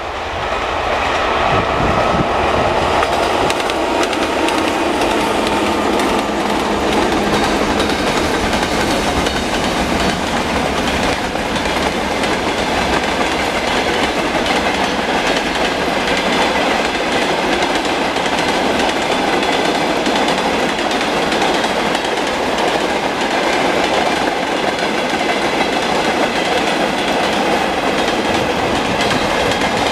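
Freight train of mixed wagons rolling past close by, a steady, loud rumble and clatter of wheels on the rails.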